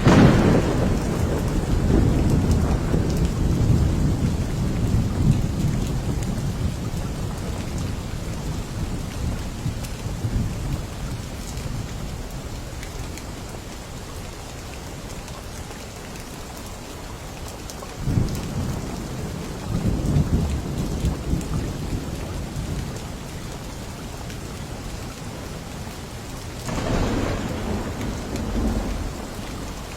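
Steady rain with rolling thunder. A long rumble fades away over the first several seconds, and further low rumbles swell up a little past the middle and again near the end.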